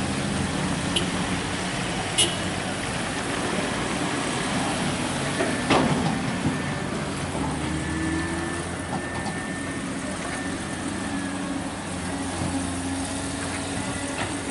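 Heavy vehicle engine running steadily, with a few sharp knocks about one, two and six seconds in.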